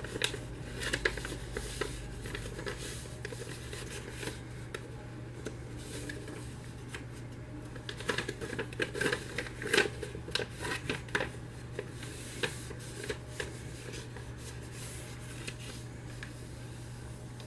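A sheet of paper being folded and creased by hand into sink folds: irregular rustling and crinkling, busiest in a cluster of crackles about halfway through.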